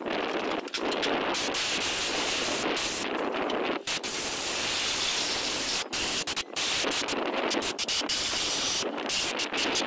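Compressed-air blowgun hissing in long blasts that stop briefly several times, blowing accumulated dust and dirt out of a long-stored truck.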